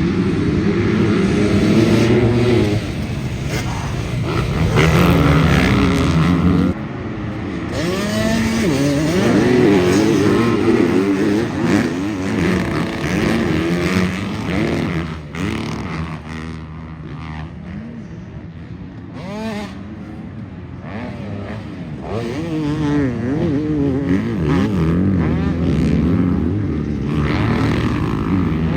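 Several motocross dirt bikes racing, their engines revving up and dropping back through the gears, with the pitch rising and falling again and again. The sound drops abruptly a few times, about seven and fifteen seconds in.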